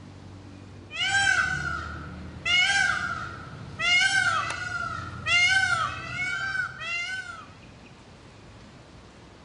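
Peacock giving a series of five loud, wailing calls over about six seconds, each call arching up and down in pitch.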